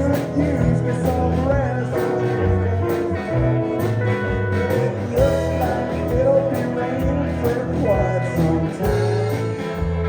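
Country band playing an instrumental stretch of a song: drums keep a steady beat under bass and guitar.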